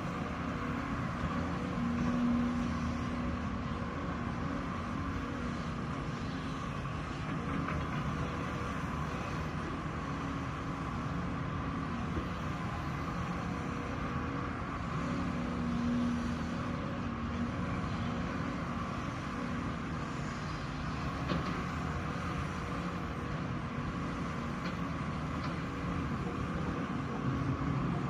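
Heavy diesel earthmoving machinery running steadily, its engine note swelling briefly a couple of times.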